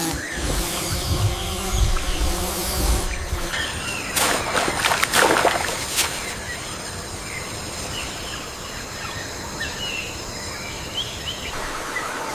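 Wild ambience of insects and birds: a steady high-pitched insect drone with short bird chirps scattered through it. A low rumble sits under the first few seconds.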